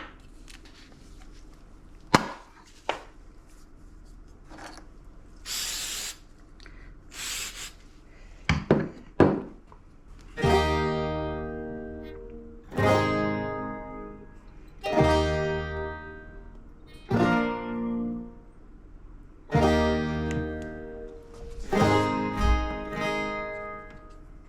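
Acoustic guitar music: strummed chords ringing out and dying away about every two seconds from partway through. Before the chords come a few sharp knocks and two short hissing bursts.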